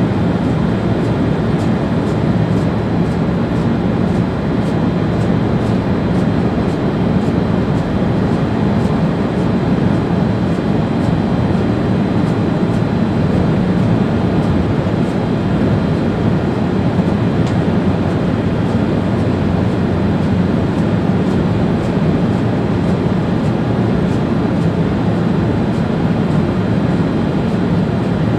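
ÖBB Railjet train running steadily, heard from the driver's cab: an even rumble of wheels on rail and running noise, with a faint steady high whine.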